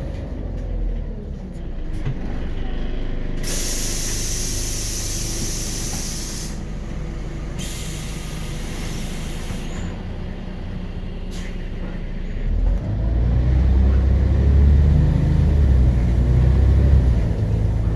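Inside a Scania CN94UB Omnicity city bus: the pneumatic air system lets out two long hisses, one starting about three seconds in and one about eight seconds in, over the low idle of the bus's Scania DC9 five-cylinder diesel. About thirteen seconds in, the engine gets much louder as the bus pulls away under load.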